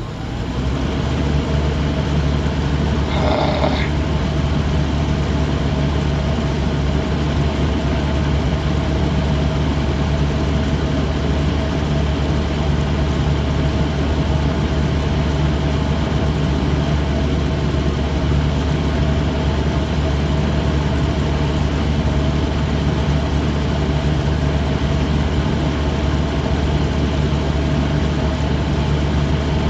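Old Lennox air-conditioner's outdoor unit running with a steady low hum and rushing air noise; the compressor is not starting, which the technician puts down to an open compressor winding. A brief higher sound comes about three seconds in.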